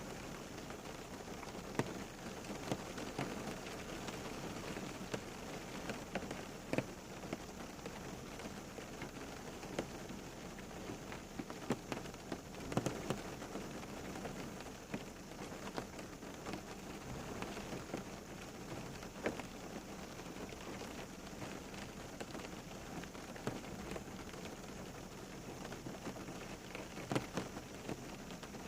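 Steady rain falling on a surface, an even wash with many separate drops pattering and splashing throughout.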